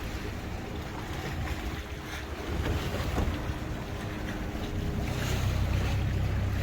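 Tour boat's engine running with a steady low hum, water washing against the hull and wind buffeting the microphone; it gets louder about two and a half seconds in and again near five seconds.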